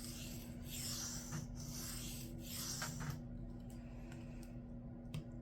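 Knife blade being stroked across a sharpening stone, about four scraping passes in the first three seconds, then quieter. These are passes to reduce a stubborn burr.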